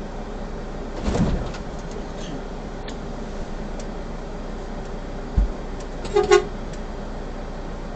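Steady vehicle engine hum, with a brief louder rush about a second in, a low thump past the middle, and a short double toot of a vehicle horn just after it.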